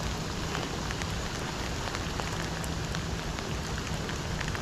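Heavy rain falling steadily, with many sharp individual drops ticking close by.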